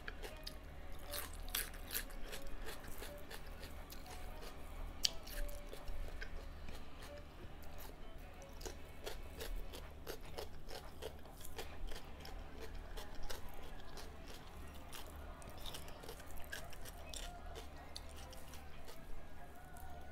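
A person chewing and biting food, with crunching and irregular wet mouth clicks throughout, from eating pork curry with rice and vegetables.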